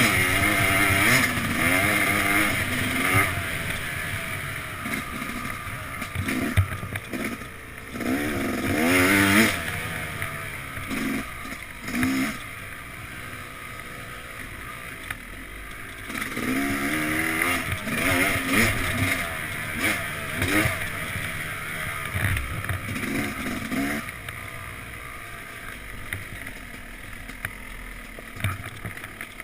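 Yamaha YZ250X single-cylinder two-stroke dirt-bike engine being ridden, its pitch rising and falling with the throttle: loud spells of revving near the start, about a third of the way in, and past the middle, with quieter stretches between.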